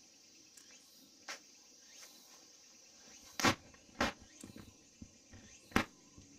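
Faint, steady high-pitched chorus of insects chirping, broken by four sharp knocks, the loudest two about three and a half and four seconds in.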